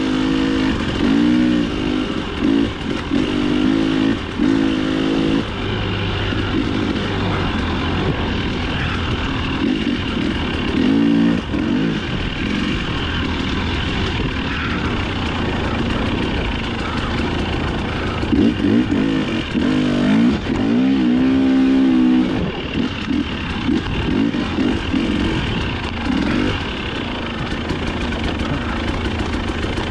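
Dirt bike engine being ridden hard, its pitch rising and falling with the throttle: a run of quick revs in the first few seconds, another burst about a third of the way in, and a longer run of revving about two-thirds in, with a steadier engine note between.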